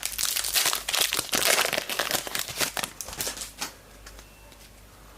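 Trading-card pack wrapper crinkling as it is handled and opened, for about three and a half seconds, then only faint rustling.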